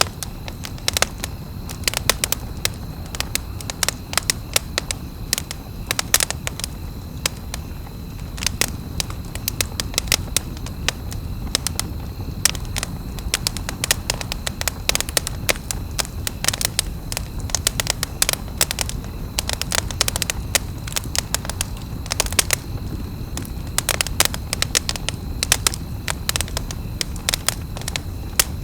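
Campfire crackling, with many irregular sharp pops and snaps over a low, steady rumble.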